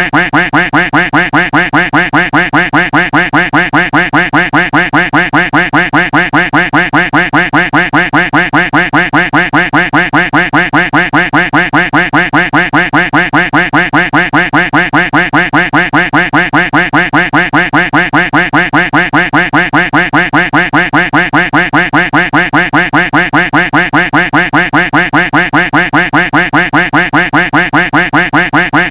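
Duck quack sound effect looped over and over in a rapid, even rhythm, about three quacks a second.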